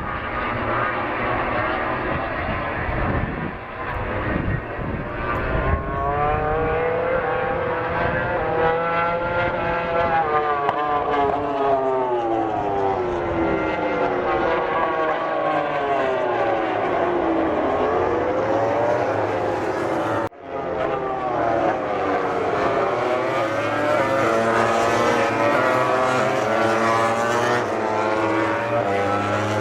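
Several MotoGP four-cylinder racing motorcycles running at high revs as they pass, their engine notes rising and falling through the gears and overlapping one another. There is a brief break in the sound about twenty seconds in.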